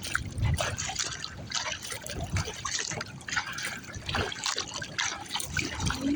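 Water splashing, trickling and dripping close around a Pelican Argo 100XR kayak, in many short irregular splashes with a low slosh every second or two.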